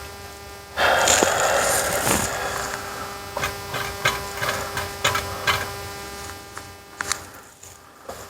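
Steady electrical hum at a soldering bench. About a second in comes a hiss lasting about a second, then a scatter of light clicks and taps as the joints are worked.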